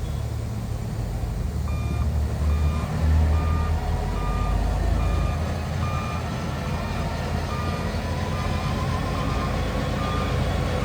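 Heavy construction machine's reversing alarm beeping steadily, about one and a half beeps a second, starting about two seconds in, over the low rumble of its diesel engine, which swells for a moment.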